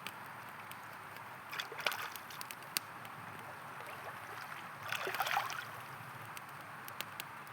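River water rushing steadily while a campfire crackles with sharp, scattered pops. Twice, about two seconds and five seconds in, the water briefly gurgles and splashes louder.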